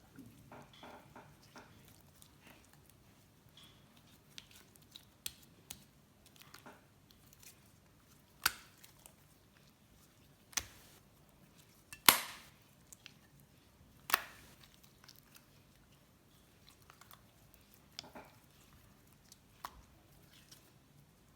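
Slime being squeezed and poked by hand, giving scattered sticky clicks and sharp pops. Four louder pops come about two seconds apart in the middle, with fainter crackles before and after.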